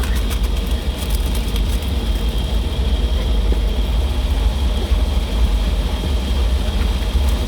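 Automatic car wash machinery running, heard from inside the car: a loud, steady low rumble with a thin, steady high whine over it and a few clicks in the first second or so. It sounds like a tornado.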